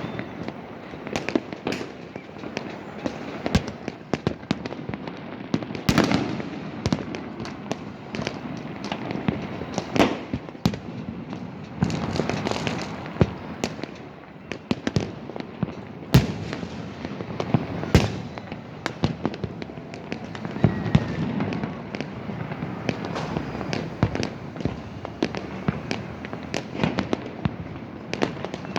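Many fireworks and firecrackers going off at once: an irregular run of sharp bangs and cracks over a continuous crackle, some near and loud, others further off.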